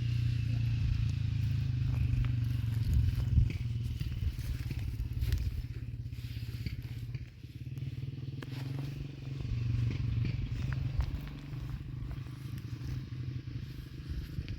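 A small engine running steadily with a low, pulsing hum, with light clattering and crackling on top.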